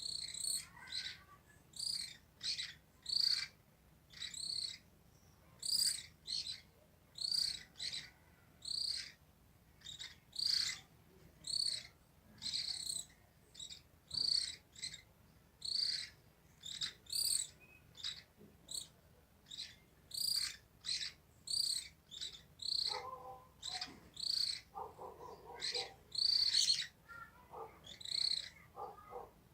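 Small birds chirping: short, high chirps repeated about once or twice a second, with a lower, rougher call joining briefly about three-quarters of the way through.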